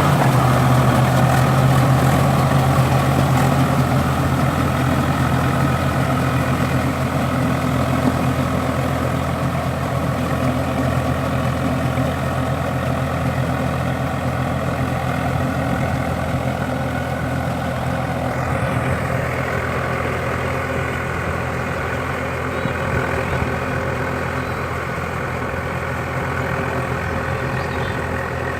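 Swaraj tractor's diesel engine running steadily, slowly getting a little quieter.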